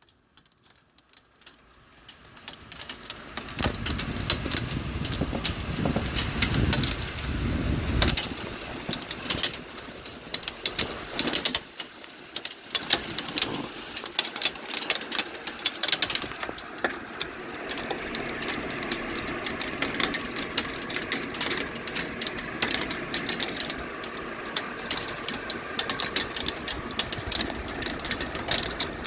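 Heavy rain with hail: a steady wash of rain with many sharp ticks of hailstones striking hard surfaces, fading up over the first few seconds. Gusts of wind buffet the microphone with a low rumble about four to eight seconds in.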